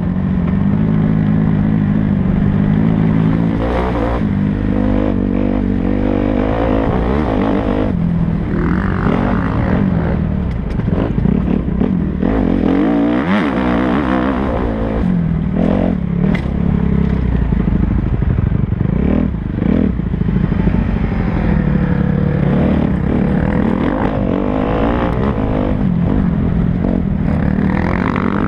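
Kawasaki KX250F motocross bike's single-cylinder four-stroke engine, revving up and dropping back over and over as it is ridden hard.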